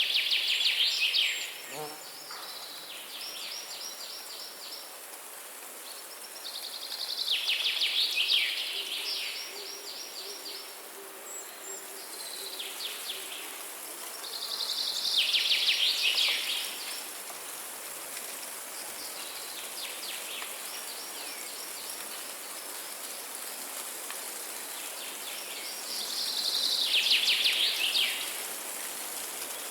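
A songbird singing a loud, rapid trilled phrase of about two seconds, repeated roughly every eight seconds. Fainter trilled phrases from other birds come in between, over a steady high hiss.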